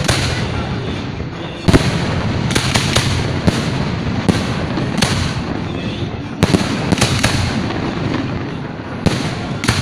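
Fireworks going off: about ten sharp bangs at irregular intervals over a continuous rumble and crackle.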